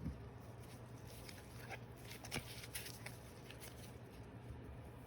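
Trading cards being handled on a table: a few faint, soft clicks and taps of card against card, the clearest about two and a half seconds in, over a low steady hum.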